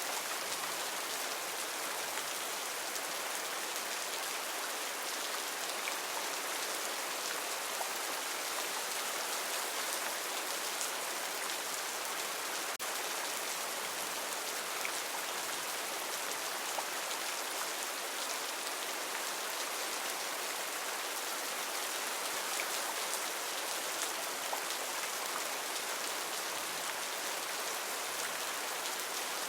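Steady heavy rain falling, an even hiss with scattered individual drops ticking.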